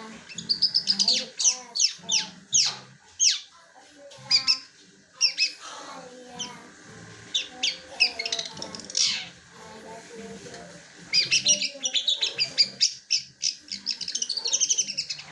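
Long-tailed shrike singing a varied song that mimics the squabbling calls of fighting tree sparrows. It starts with quick downward-sweeping whistles and breaks into fast chattering runs of chirps in the second half. The owner judges the song below its best because the bird is short of extra feeding and sunning.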